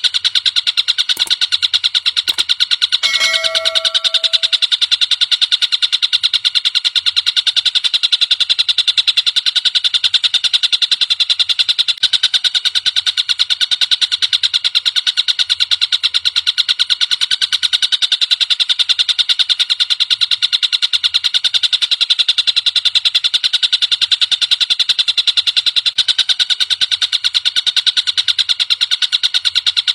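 Tengkek buto bird calling in a rapid, unbroken rattling trill of high, buzzy notes, repeated many times a second and held steady throughout. A brief lower whistle-like note cuts in about three seconds in.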